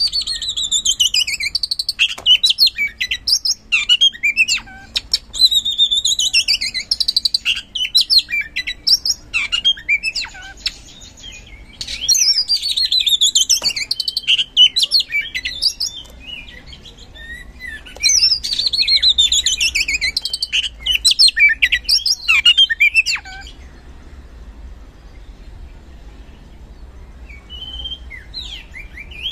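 Oriental magpie-robin (kacer) singing loud, fast phrases of falling whistles and trills in four bursts with short pauses between them. The song drops away for the last several seconds.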